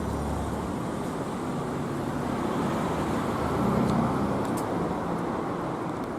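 Street traffic noise: a steady rumble and hiss of passing cars, swelling a little about four seconds in.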